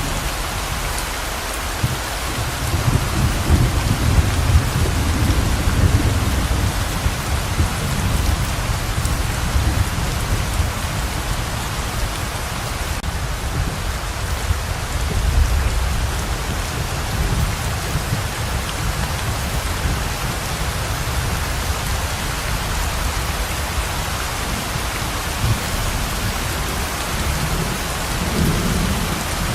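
Heavy pouring rain, a steady hiss, with rolling thunder rumbling low, loudest from about two to seven seconds in, with weaker rumbles around the middle and near the end.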